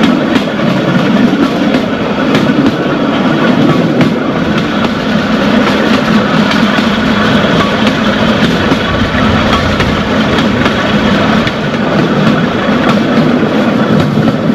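Open-air excursion railroad car rolling along the track: a loud, steady rumble and rattle of wheels on rails, with faint clicks.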